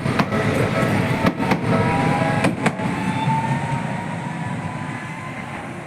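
Tokyu Setagaya Line tram running, with a steady low rumble and sharp clicks of the wheels over rail joints, then a faint rising whine; the sound slowly fades.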